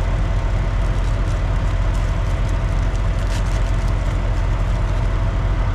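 An engine idling steadily with a low rumble, and a few faint ticks from handling parts.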